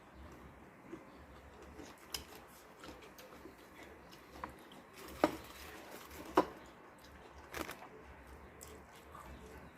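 Eating at a meal: utensils clicking against dishes, with two sharp clinks about halfway through and a few softer taps around them.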